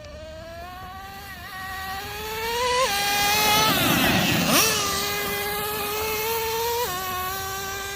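Traxxas Nitro Revo 3.3 RC truck's two-stroke TRX 3.3 nitro engine running at high revs while driving. The pitch climbs, drops suddenly about three seconds in, then the truck passes close at its loudest about four and a half seconds in. The pitch falls again near the end.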